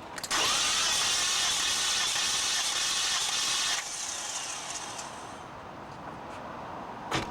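Starter cranking a car engine for a compression test, with a short rising whine as it spins up and a loud hiss, stopping suddenly after about three and a half seconds. A single sharp click comes near the end.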